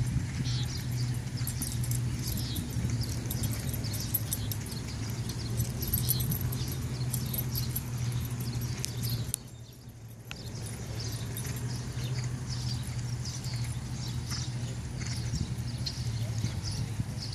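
Paso Fino horse's hooves clip-clopping in a string of small quick ticks over a steady low hum. The sound briefly drops quieter about halfway through.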